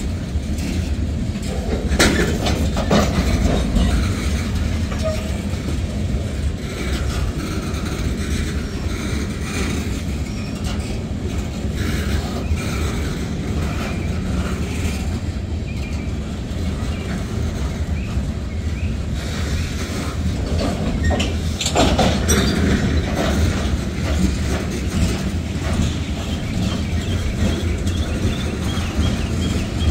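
Freight cars (covered hoppers and boxcars) rolling past: a steady rumble of steel wheels on the rails. Sharp clanks of wheels over rail joints come about two seconds in and again around twenty-two seconds.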